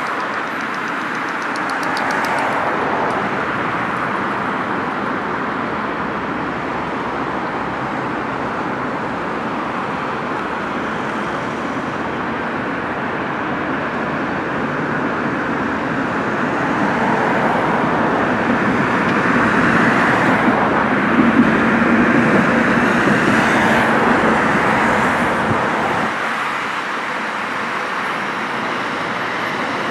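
Road traffic running steadily beside the line while a Stadler diesel multiple unit approaches. The sound swells about two-thirds of the way through as the train draws near and passes, then eases off.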